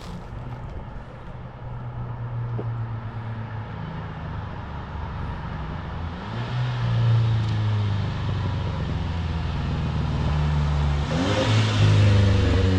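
Straight-piped exhaust of a 2018 Mercedes-Benz CLA250's turbocharged four-cylinder under acceleration on the road, the engine note rising and stepping down a couple of times and growing louder toward the end.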